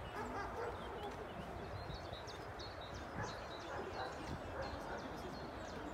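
Small birds singing in short high chirps, most of them in the middle of the stretch, over a low wind rumble on the microphone and faint voices.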